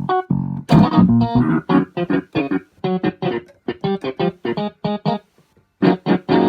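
Electronic keyboard playing a rapid run of short staccato notes and chords, about four a second, with a brief pause about five and a half seconds in.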